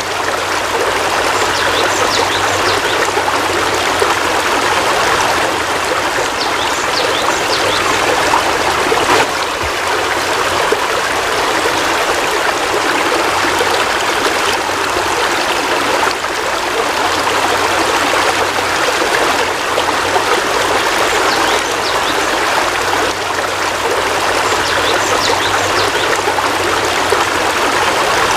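Heavy rain falling steadily: a dense, unbroken hiss of water.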